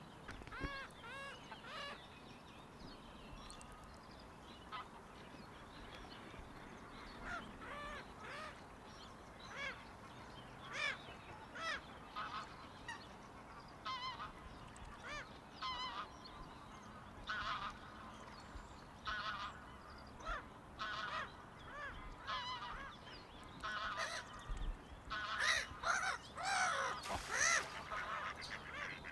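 Geese honking: short calls repeated every second or so, with several birds calling over each other near the end.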